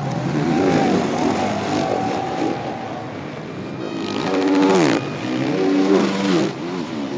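450-class four-stroke motocross bikes revving, their engine notes rising and falling and overlapping, played in reverse.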